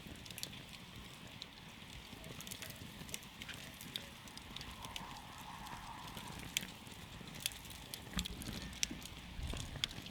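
Wood campfire burning, with frequent irregular sharp crackles and pops of burning wood over a low hiss.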